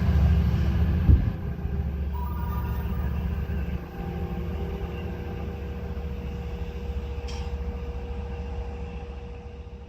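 Train rumbling past and slowly fading as it moves away, with one sharp knock about a second in.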